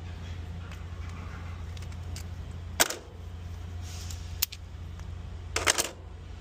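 Steady low hum of an idling engine under a few sharp clicks from handling the repaired inflator hose's fittings: one click about three seconds in, another a second and a half later, and a quick run of clicks near the end.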